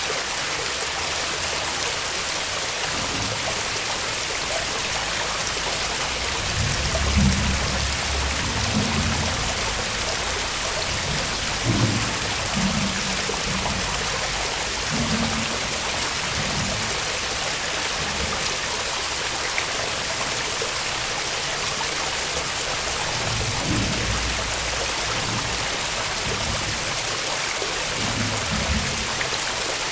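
Waterfall splashing as a steady, loud rush of water, with brief low rumbles coming and going under it.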